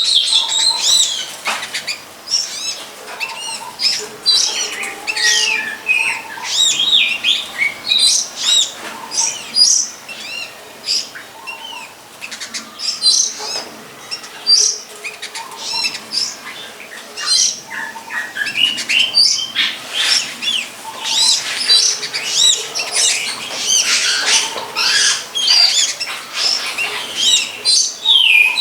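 Songbirds chirping and singing without a break: a dense run of quick, high notes that rise and fall, with a few lower whistled notes among them.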